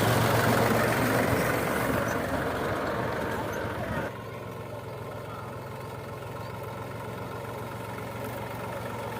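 Tractor engine running with a steady low hum, loud at first and fading over about four seconds, then dropping suddenly to a fainter, steady drone.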